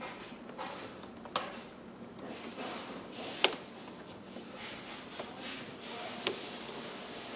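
Three sharp clicks from tools and parts being handled during interior reassembly, the loudest about three and a half seconds in, over quiet rustling.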